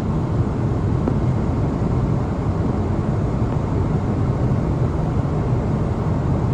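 Steady, loud roar of a Boeing 777-300ER heard from inside the cabin: the rumble of its GE90 engines and the airflow around the fuselage, heaviest in the low range.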